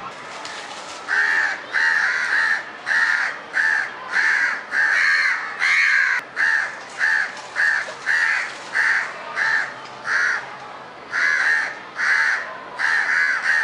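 House crows cawing, a long run of short harsh caws about two a second, with a pause of about a second near the end.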